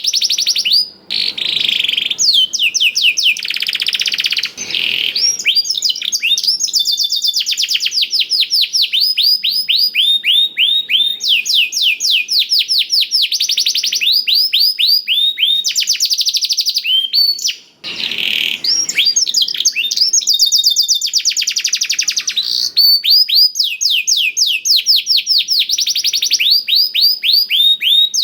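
Domestic canary singing a long, nearly unbroken song of fast trills, each made of rapidly repeated high falling notes. Its song is filled with phrases learned from a black-throated canary. The song pauses briefly about a second in and again just before halfway.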